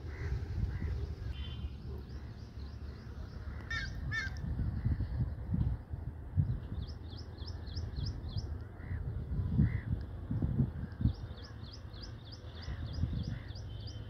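Birds calling: runs of quick, repeated high chirps, with a short pair of harsher calls about four seconds in. A low, uneven rumble lies underneath.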